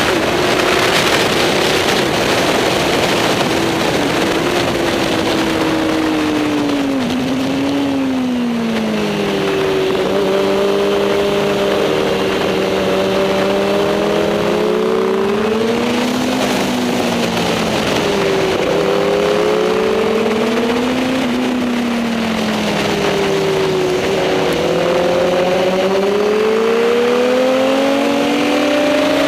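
Superbike engine running hard on the race track, its pitch rising and falling again and again as it accelerates and slows, over a steady rush of wind noise.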